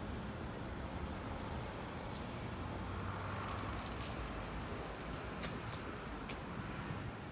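Steady street traffic noise with a low rumble and a brief swell about three seconds in, as of a vehicle going by, plus a few faint clicks.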